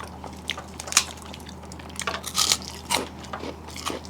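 Eating sounds of a rice-and-vegetable meal: scattered short crunches and clicks from chewing and from the plate, loudest about a second in and in a cluster around two and a half to three seconds in.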